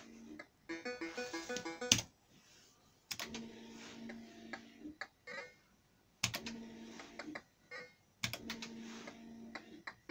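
Reel Crazy fruit machine playing its electronic beeping jingles in four short bursts, with sharp clicks from the machine between them.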